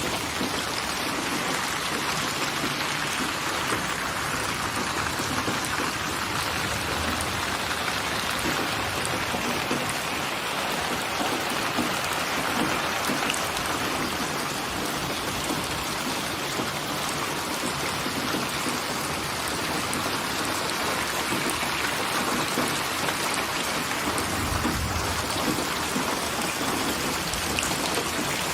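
Steady heavy rain falling, a dense even hiss of drops. A brief low rumble swells and fades near the end.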